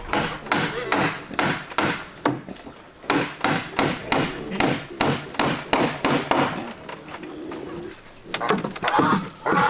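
Hammer striking wood in a steady run of blows, about two to three a second, that stops about six and a half seconds in.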